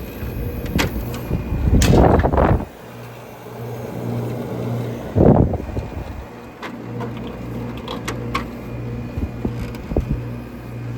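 Vintage window air conditioner running with its rotary compressor humming steadily while it builds pressure; from the sound the owner takes the compressor for a Matsushita. Two loud rushes of noise, about two and five seconds in, and a few clicks break over the hum.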